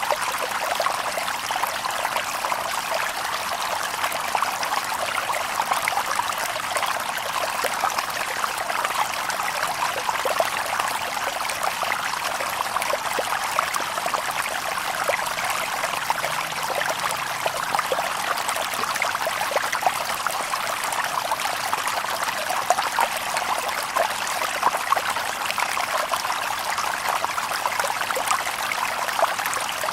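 A shallow stream babbling over stones: steady, dense splashing and gurgling, bright and light, with little low rumble.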